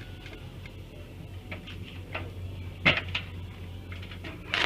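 A few light clicks and knocks, one sharper knock about three seconds in, over a steady low hum; no welding arc is running.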